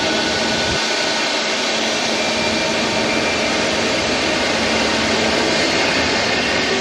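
Jet airliner engine noise: a steady rush with several steady whining tones held over it. The lowest rumble drops out abruptly about a second in.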